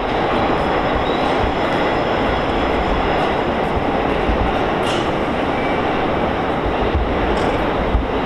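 Steady, loud rumble of an electric train in the station, with two brief high squeaks about five and seven and a half seconds in.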